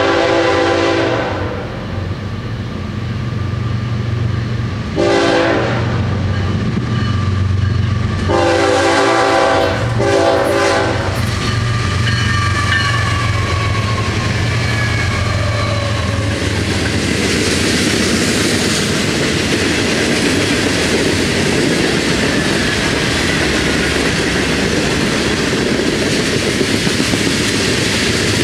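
Florida East Coast diesel freight train passing at a crossing. The lead GE ES44C4 locomotive's air horn sounds four blasts in the first eleven seconds, the second one short, over the steady deep drone of the locomotives' diesel engines. From about sixteen seconds in, the freight cars roll past with a continuous noise of steel wheels on rail.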